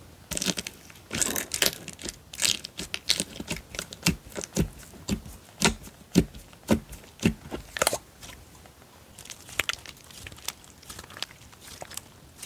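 Slime being squished and stretched by hand, giving a run of irregular pops and crackles. They come thick and fast for about the first eight seconds, then thin out.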